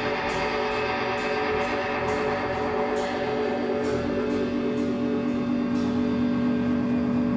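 Live band playing: held guitar chords over drums, with a cymbal struck about twice a second.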